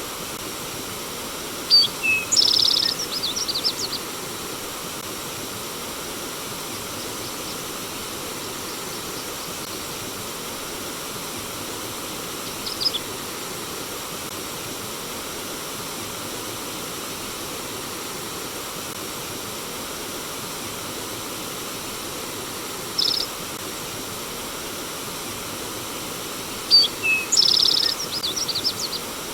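Steady rush of flowing stream water, with a songbird singing short high phrases over it: a quick trilled phrase about two seconds in, single brief chirps near the middle, and the same trilled phrase again near the end.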